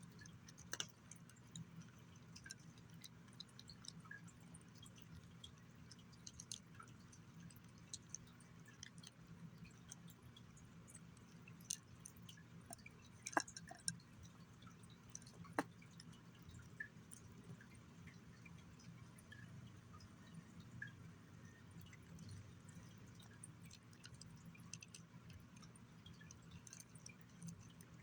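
Faint, wet chewing and lip-smacking of a young gray tabby cat eating chicken and egg: many small scattered clicks, two sharper ones about halfway through, over a steady low hum.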